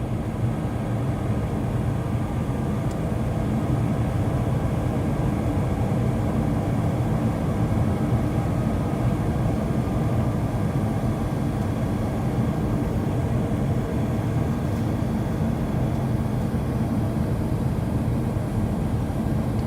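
Steady cabin noise of an Airbus A321-231 in flight, heard from inside the cabin: the drone of its IAE V2500 turbofan engines and the rush of air over the fuselage.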